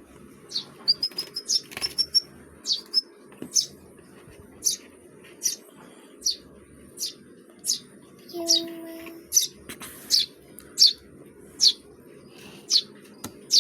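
Small birds chirping as they feed: short, sharp, falling chirps about once a second, with a quick run of high repeated notes in the first two seconds. A brief low tone sounds once, about two-thirds of the way through.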